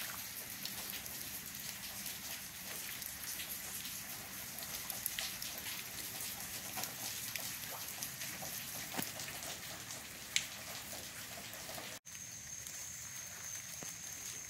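Steady light rain falling on grass and a brick path: an even hiss with scattered drop clicks. The sound briefly drops out about twelve seconds in, after which a thin steady high whine runs under the rain.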